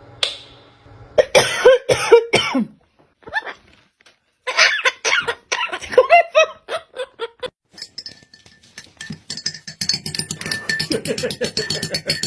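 A parrot calling in quick short chirps and squawks, then a rapid run of clicks in the last few seconds.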